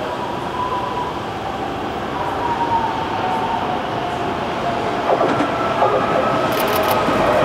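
Tokyo Metro 05 series electric train approaching, its running noise slowly growing louder with a steady whine in it. A few sharp clicks come near the end.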